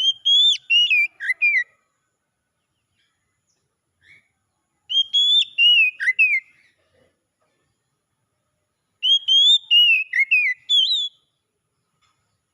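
Oriental magpie-robin (kacer) singing: three short phrases of clear, sliding whistled notes, about four seconds apart.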